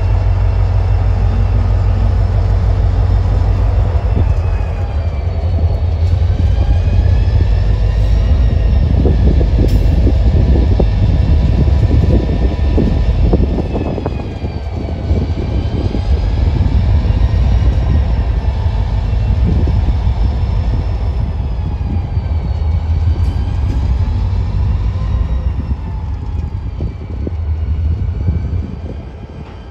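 Freight train rolling past: a heavy steady rumble and rattle of the cars, with a faint wavering whine above it, dying away near the end.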